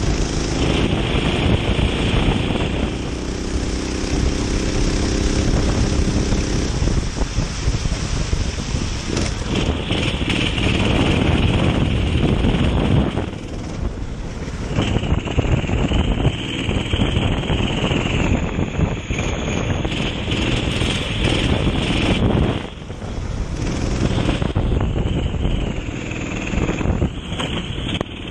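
Kart engine running hard under load, its pitch rising and falling with the throttle, with wind buffeting the microphone. The engine sound drops briefly twice, about 13 and 22 seconds in.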